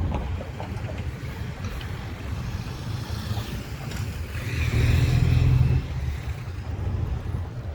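A motor vehicle passing on the street. Its low rumble builds over the first few seconds, is loudest about five seconds in, then drops away.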